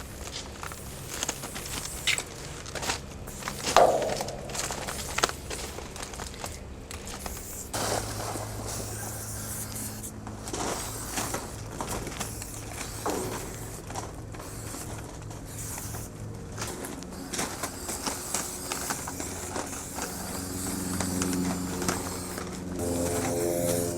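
Footsteps with scattered scraping, rustling and clicking handling noises over a steady low hum. Music comes in near the end.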